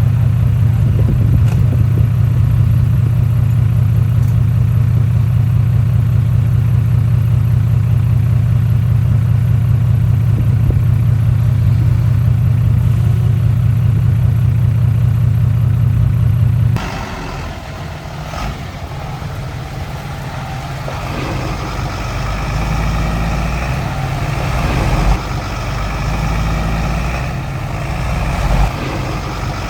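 Heavy diesel engine running steadily with a strong low hum. About two-thirds of the way in the sound changes abruptly to another engine working, rougher and uneven, growing louder, with two short sharp knocks near the end.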